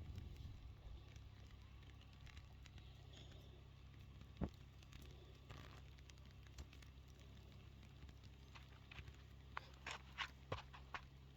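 Near silence: a faint steady low rumble, with one sharp tap about four seconds in and a quick run of short taps near the end.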